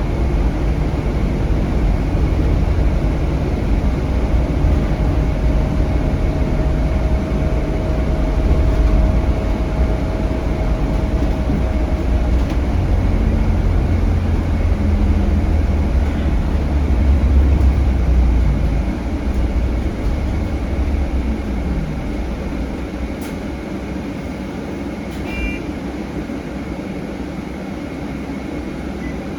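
Scania K320HB bus with its DC9 diesel engine, heard from on board while driving: a steady low rumble that grows quieter about twenty seconds in, with a faint whine over it for a few seconds early in the ride.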